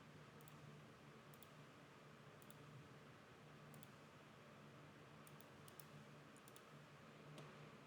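Faint computer mouse clicks, about a dozen, some single and some in quick pairs, over a low steady hum.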